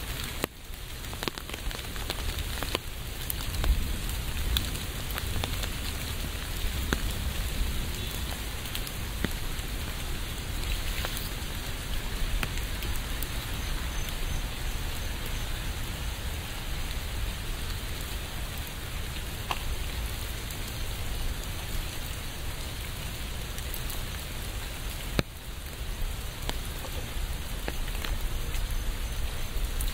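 Steady rain falling, with many individual drops ticking as they hit the surface. There is a brief dip about half a second in and another near the end.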